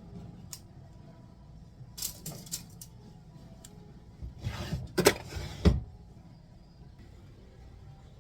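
Kitchen handling noises: a few light clicks and clinks, then, about four seconds in, a second and a half of rustling or scraping that ends in two sharp knocks.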